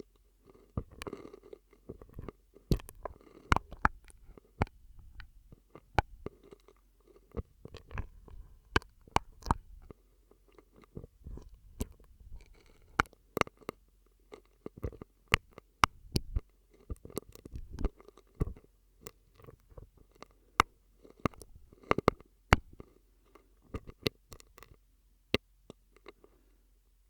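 ASMR mouth sounds made through a drinking straw close to the microphone: irregular wet clicks, pops and smacks over soft, low, gurgling sounds.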